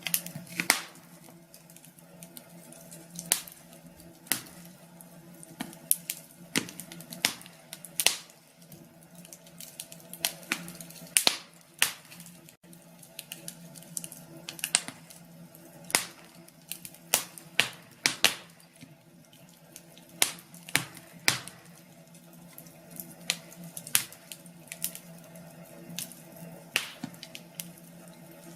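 Wood fire crackling in a fireplace: irregular sharp snaps and pops, some much louder than the rest, over a soft steady hiss and a faint low hum.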